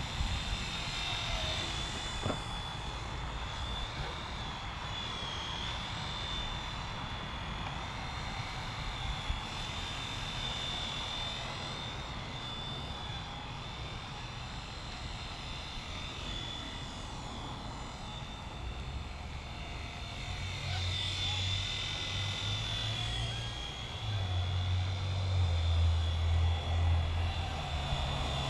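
WLtoys V911 micro R/C helicopter flying: its small electric motor and rotor give a steady high whine that wavers in pitch as the throttle changes. A louder low rumble joins near the end.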